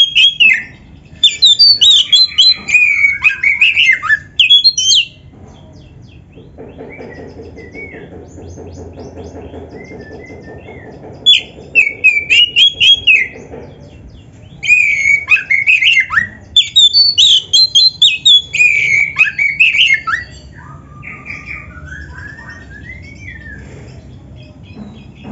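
Oriental magpie-robin singing in loud bursts of rapid, varied whistled phrases with sliding notes, broken by pauses of several seconds. It is a full 'gacor' song packed with mimicked phrases.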